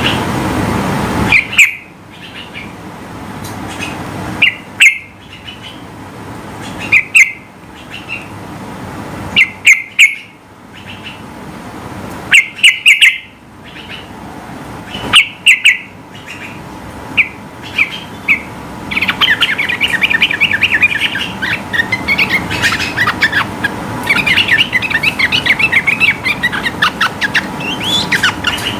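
Yellow-vented bulbul singing: short, loud whistled phrases every two to three seconds, then from about two-thirds of the way in a long, fast chattering run of notes (the 'ropel' song).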